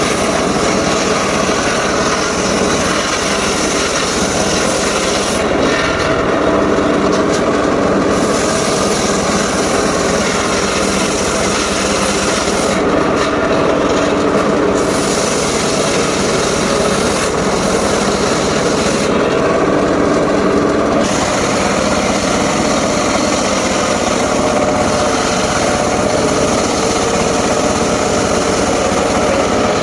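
Mobile circular sawmill running and sawing through timber: a loud, steady rasp of the blade in the wood over the hum of its drive. The high hiss eases off briefly three times.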